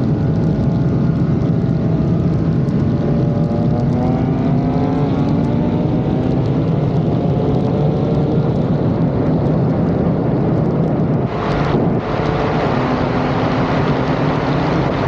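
Turbocharged BMW inline-six engines at full throttle in a roll race, the engine note climbing in pitch in stages as it pulls through the gears, with a short break about eleven seconds in, over heavy wind noise.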